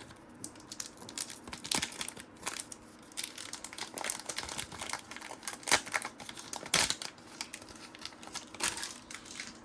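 Trading cards being handled and sorted, giving irregular crinkling and rustling with sharper crackles about six and seven seconds in.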